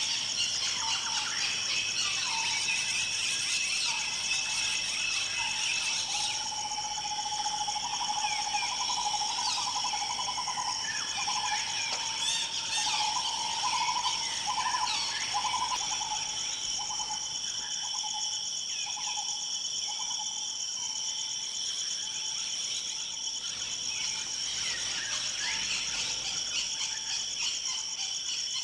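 Forest ambience: insects trill steadily in two high bands under many short bird chirps and calls. About a fifth of the way in, a lower pulsing trill starts and runs for about ten seconds.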